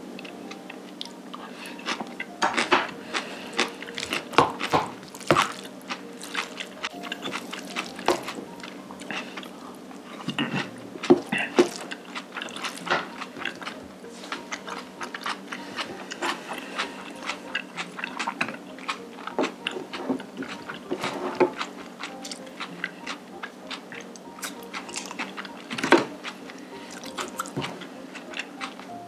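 Close-miked mukbang eating sounds: a person chewing and biting black bean noodles and side dishes, with many short wet smacks and some crunches throughout.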